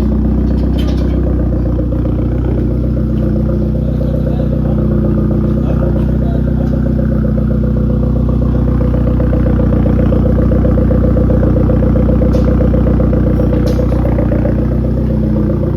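Genesis engine idling steadily through its exhaust, with the downpipe fitted and the muffler and resonator deleted. The level swells slightly about halfway through.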